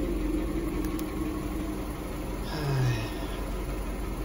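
Skoda Fabia 1.4 petrol engine idling steadily. The owner says the engine has run louder, with a knock, since its bent valves were replaced.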